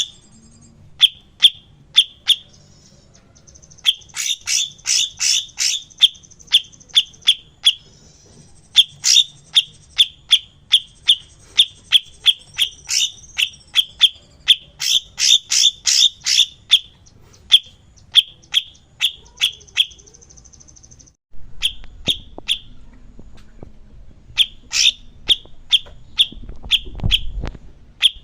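Cucak cungkok songbird singing in runs of sharp, repeated chirps, about two to three a second, with a high buzzing trill underneath in stretches. A low rumble comes in about two-thirds of the way through.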